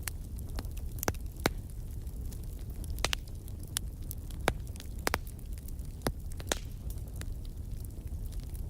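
Wood fire crackling in a fireplace: irregular sharp pops and snaps, about one every second, over a low steady rumble.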